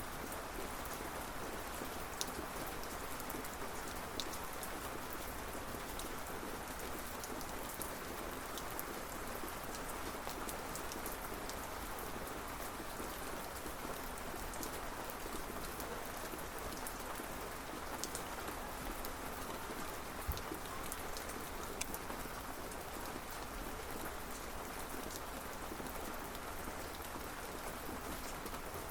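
Steady rain falling, with scattered sharper drop hits now and then.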